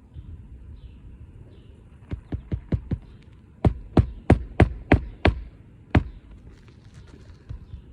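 Hammer driving roofing nails to fasten a new asphalt shingle: a few light taps, then about seven harder, evenly spaced blows.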